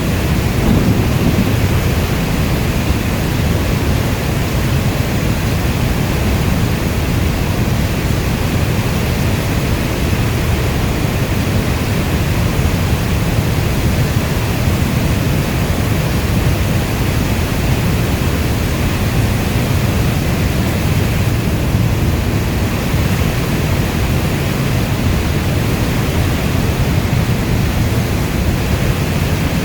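Steady heavy rainfall, an even hiss weighted toward a deep low rumble, with no separate drops or thunderclaps standing out.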